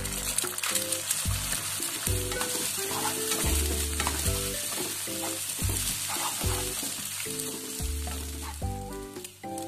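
Egg and vegetables sizzling in a hot non-stick wok as a wooden spatula stirs and scrambles them.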